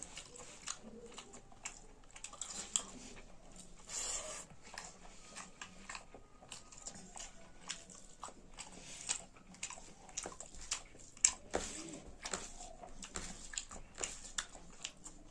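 A person chewing food close to the microphone, with many short mouth clicks and smacks throughout.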